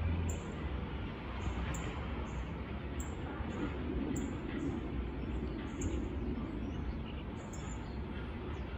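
Small birds chirping in short, high notes at irregular intervals over a steady low outdoor rumble.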